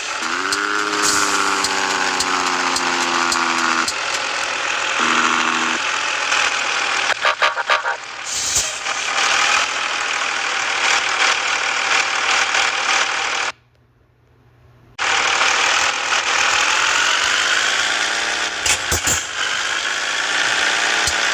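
Scania S 450 truck engine running under load, its pitch rising and then holding, then falling and rising again as the revs change. About two-thirds of the way through, the sound cuts out for about a second and a half, then resumes.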